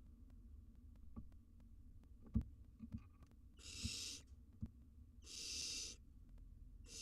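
Barn owl nestlings giving their hissing begging calls: three drawn-out hisses under a second each, from about three and a half seconds in. A few soft knocks come before, the loudest about two and a half seconds in.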